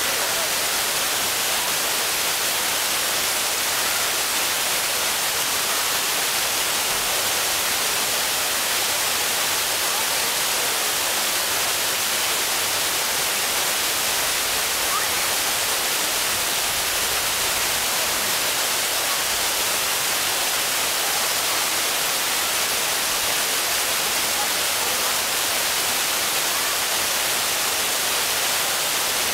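Waterfall: water falling in a steady, even hiss that stays the same throughout, weighted toward the high end.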